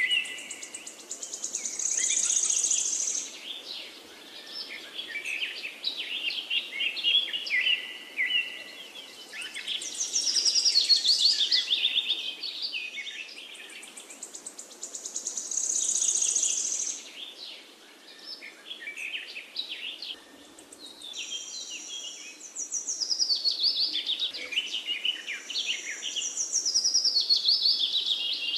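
Birds chirping and singing, with many overlapping calls and fast high trills that swell and fade every few seconds.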